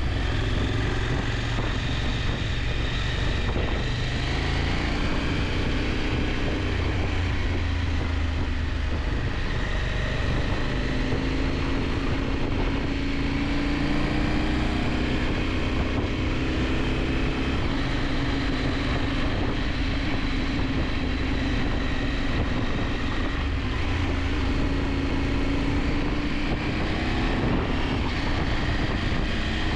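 KTM 890 Adventure's parallel-twin engine running while riding, its pitch rising and falling gently with the throttle, over steady wind rush on the microphone.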